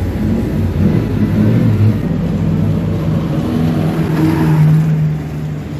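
Vintage sports car engines running at low speed as the cars pass close by, the engine note shifting up and down; on screen are a 1933 Alfa Romeo 8C 2300 Monza and then a 1934 Aston Martin Le Mans. A stronger, steady engine note comes about four to five seconds in as the Aston Martin goes past.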